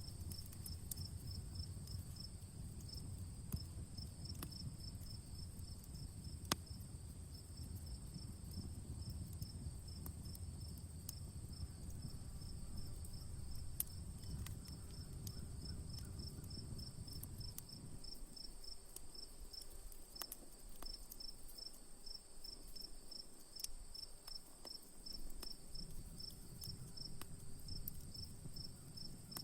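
Crickets chirping in steady, rapid pulses over a constant high insect trill, with scattered sharp pops and crackles from a wood campfire, a few of them louder. A low rumble underneath drops away about eighteen seconds in.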